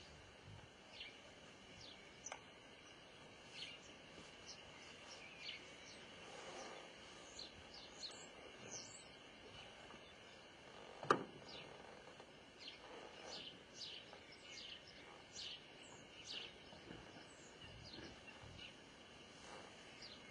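Faint birdsong: many short, falling chirps scattered throughout. A single sharp click about eleven seconds in is the loudest moment.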